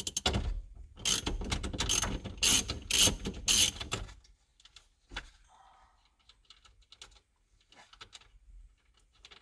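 Socket ratchet clicking rapidly for about four seconds as the steering wheel's center nut is backed off, then a few scattered light clicks and knocks.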